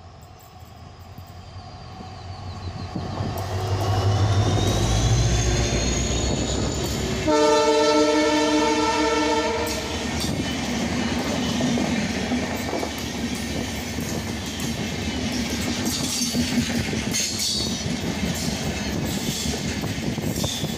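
A WDP4 diesel-electric locomotive approaches, its engine rumble growing louder, then sounds its horn in one steady chord for about two and a half seconds. Its passenger coaches then rush past, wheels clattering and clicking over the rail joints.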